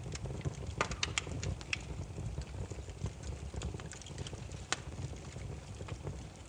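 Wood fire crackling: a steady low rumble of burning logs with sharp irregular pops and snaps, a cluster of them about a second in and a single loud snap near five seconds.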